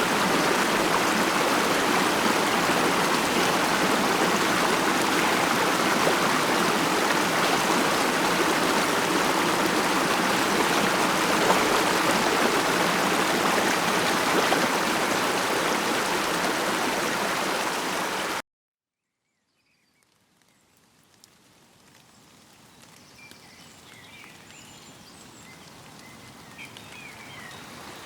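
Steady rushing and babbling of a mountain stream that cuts off abruptly about two-thirds of the way through. After a second or two of silence, faint water sound fades slowly back in.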